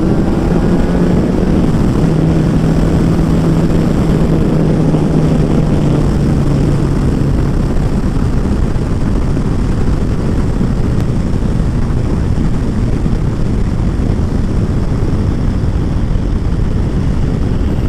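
Kawasaki ZZR1400 inline-four engine pulling at speed, its note climbing slightly over the first several seconds before it sinks under a steady rush of wind on the helmet-camera microphone.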